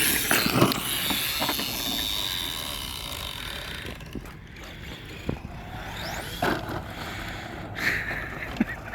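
Brushless 2WD short course RC trucks running over dirt: electric motor whine rising and falling, with tyres scraping on the ground. A few short knocks come in the second half.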